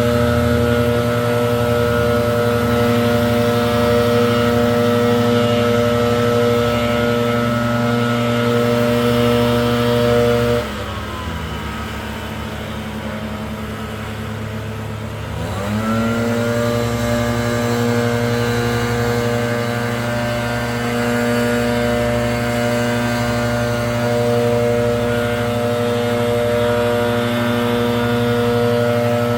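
Gas leaf blower running at full throttle, its engine note steady and loud; about ten seconds in the throttle is let off and the pitch falls to a lower running speed, then it is opened up again about five seconds later and holds its high note.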